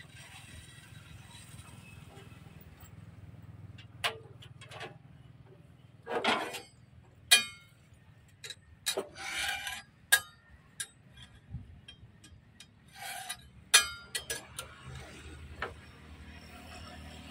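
Irregular clinks and knocks of metal tools and parts being handled, with a few sharper strikes, the loudest about seven and fourteen seconds in.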